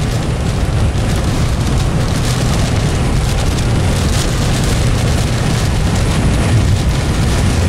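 Steady, loud rumble of wind buffeting the microphone over road noise from a moving vehicle in strong crosswinds.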